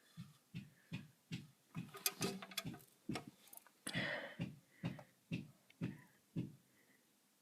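Regular banging: a steady series of short knocks, about two and a half a second, stopping about a second before the end.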